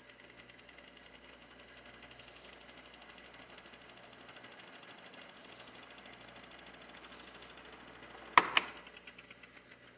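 Vintage Panasonic F-1206 12-inch table fan running on medium speed: a steady motor hum with a fine, fast, even ticking. Two sharp clicks come close together near the end.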